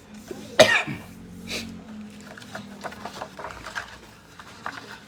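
A person coughs sharply once about half a second in, with a smaller cough about a second later. Faint light scrapes and taps follow.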